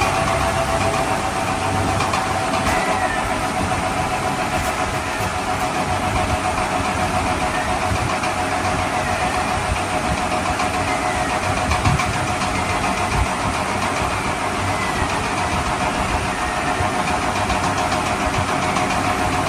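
A steady engine-like running sound with a constant hum, unchanging throughout.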